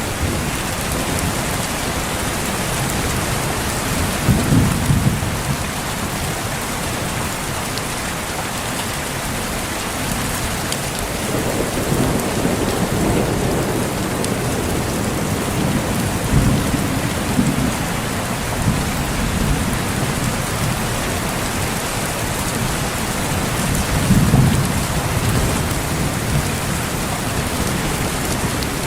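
Steady rain falling, with low rolls of thunder rumbling in several times, the loudest about four seconds in and again near the end.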